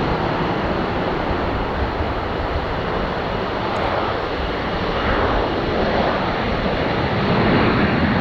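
Jet engine noise from an Airbus A321neo with CFM LEAP-1A turbofans, a steady rush that swells a little about five seconds in and again near the end.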